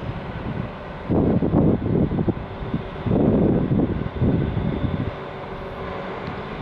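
Kyoto Tango Railway diesel railcar pulling out of the station, a steady low rumble with irregular gusts of wind buffeting the microphone.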